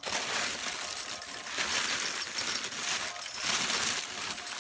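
Continuous rustling and crinkling of packaging as a sneaker is taken out and handled, easing off near the end.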